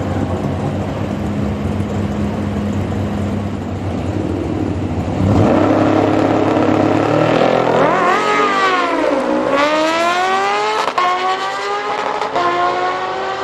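Drag-racing vehicle's engine running steadily at the line, then launching about five seconds in and revving hard, the pitch climbing and dropping back at each of several gear changes.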